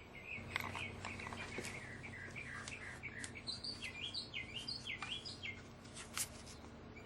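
Small birds chirping over and over in quick, short notes, with a few sharp clicks scattered through and a faint steady low hum underneath.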